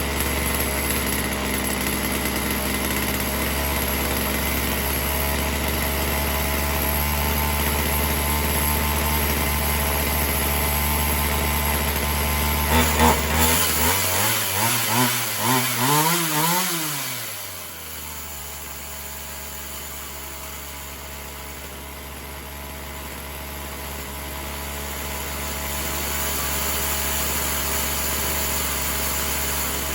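Poulan Pro 4620 two-stroke chainsaw running at a steady idle, then revved in a quick series of throttle blips about halfway through before dropping back to a lower, quieter idle. The saw is being run while its carburettor idle and mixture are being adjusted.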